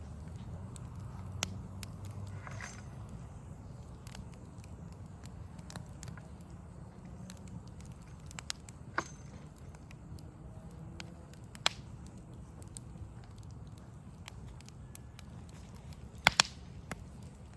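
Wood fire crackling, with scattered sharp pops and a loud double pop near the end, over a steady low rumble of city background.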